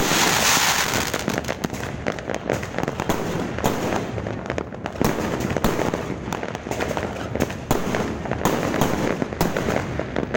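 New Year fireworks going off in quick, continuous succession: many bangs and crackles overlapping, loudest in the first second.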